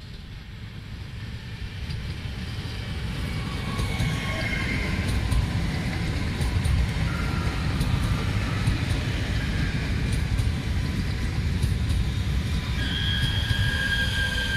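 Siemens Desiro electric multiple unit approaching and then passing close by. The rumble of the train on the rails grows louder over the first few seconds and then holds steady, with high whining tones over it, which become stronger near the end.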